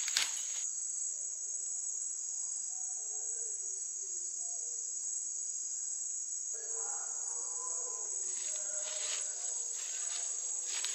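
Steady, high-pitched chorus of night insects, with a few sharp clicks right at the start and faint wavering lower tones joining in the second half.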